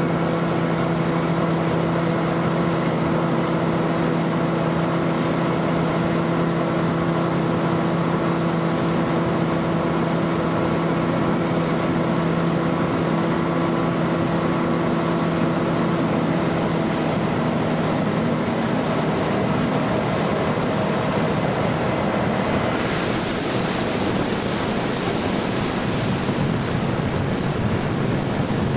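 FNM HPEP250 common-rail turbo diesel inboard of a motorboat running at a steady pitch, with the hiss of water and wind throughout. About 17 seconds in the engine tone fades, and from about 23 seconds the water and wind hiss grows.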